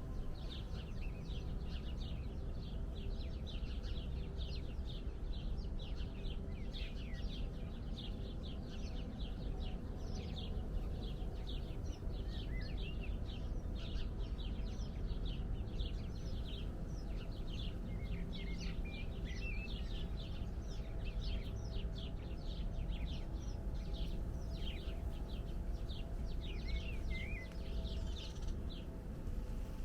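Many small birds chirping without a break in quick, short, falling chirps, over a steady low background rumble.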